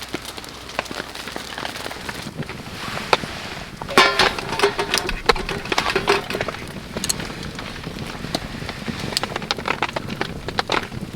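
Steady rain falling, with many drops tapping sharply close by. From about four seconds in to about six seconds, a brief pitched sound lies over the rain.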